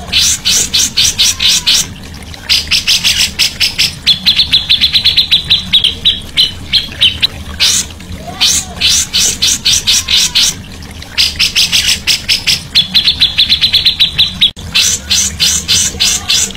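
Songbird giving a loud, fast chatter: bursts of evenly repeated high notes, about eight to ten a second, each burst lasting one to three seconds, with short pauses between.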